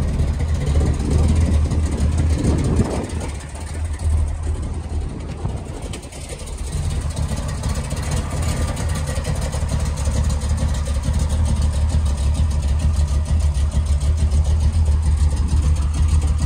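Chevrolet 454 big-block V8 idling steadily; its sound dips for a few seconds near the start and then comes back.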